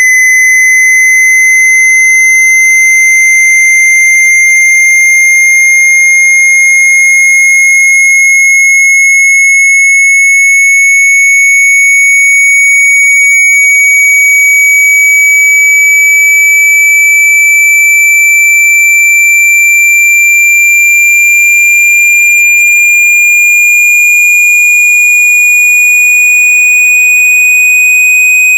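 Loud, steady electronic sine tone, high-pitched and rising very slowly and evenly in pitch: a synthesized water-eject frequency sweep meant to vibrate water and dust out of a phone speaker.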